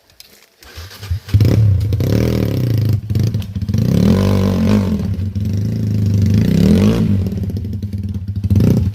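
Kawasaki KLX dirt bike's single-cylinder engine revving hard, its pitch rising and falling over and over under throttle. It comes in about a second in and cuts off suddenly at the end.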